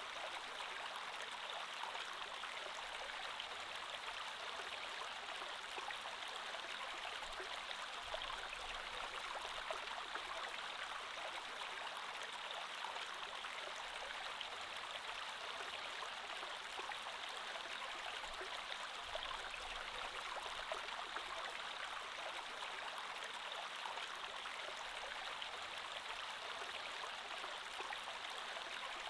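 A creek flowing steadily, its water running with an even rushing sound.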